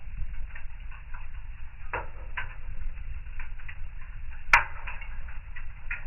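Wood fire crackling in a fireplace: irregular small snaps over a low, steady rumble, with one sharp pop about four and a half seconds in.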